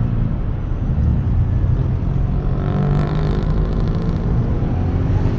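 Heavy road traffic picked up by a lavalier mic inside an open-face motorcycle helmet: a steady low engine hum, with another vehicle's engine note rising and fading around the middle.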